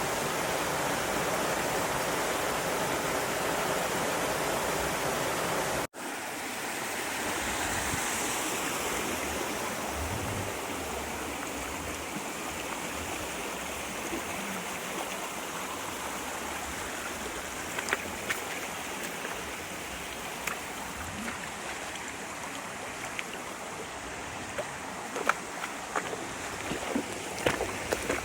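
Mountain stream water running over rocks, a steady rush. It breaks off for an instant about six seconds in, and scattered sharp clicks sound over the water in the last ten seconds.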